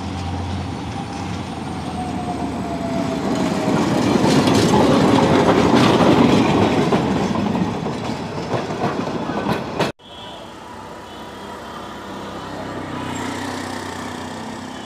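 Diesel locomotive hauling passenger coaches passes close by: the engine noise builds to a loud peak about halfway through, with the wheels clicking over the rail joints. About ten seconds in it cuts off abruptly to much quieter street ambience.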